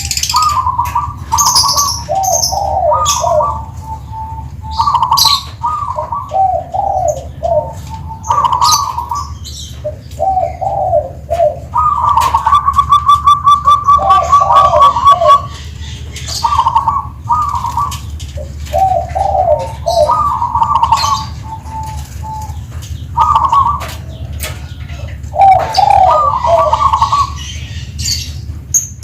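Zebra dove (perkutut) cooing in repeated short phrases, with one long rapid rolling trill about halfway through.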